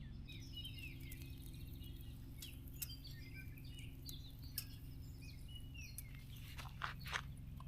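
Songbirds chirping and singing in short, quick phrases, with a few sharp taps scattered through, the loudest near the end, over a steady low rumble.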